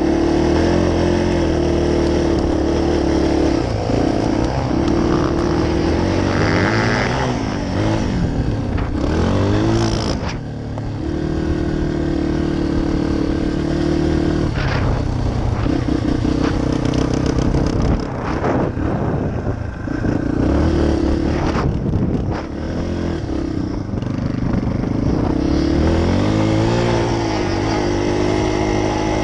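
Dirt bike engine running hard at high revs in long steady stretches, its pitch dipping and climbing again several times as the throttle is backed off and reopened.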